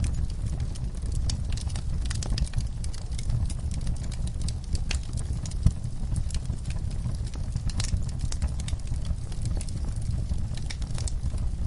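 Logs burning in a fireplace, crackling with frequent sharp pops over a low steady rumble of the flames; one louder crack about halfway through.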